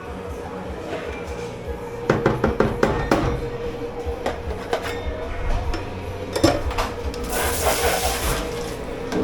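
Dishes and utensils clattering in a commercial dish pit, with a burst of water spraying about three-quarters of the way in, over a steady hum and background music.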